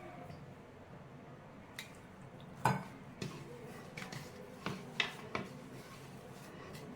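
A handful of light knocks and clinks against a dish while bread is worked into dough with a little water, the loudest knock nearly three seconds in and several smaller ones over the next few seconds.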